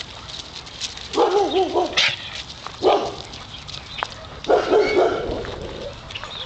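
Dogs barking in three outbursts a second or so apart; the first is a wavering call nearly a second long.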